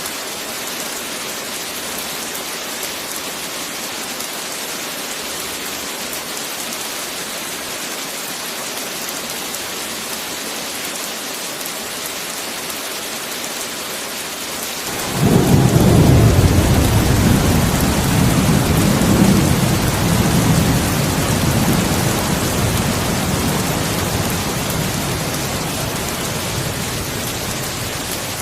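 Steady heavy rain hissing, with a roll of thunder breaking in suddenly about halfway through, a deep rumble that slowly fades away.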